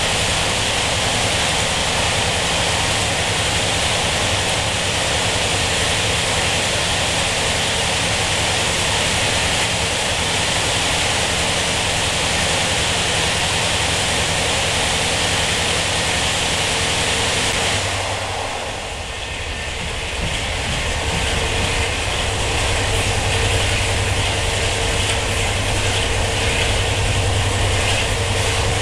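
Running noise inside a non-air-conditioned Taiwan Railway ordinary-train carriage, its windows open, travelling at speed through a tunnel: a loud, steady roar of wheels on rails and rushing air. About 18 seconds in the roar drops briefly as the train leaves the tunnel, then the running noise carries on in open air with a steady low hum.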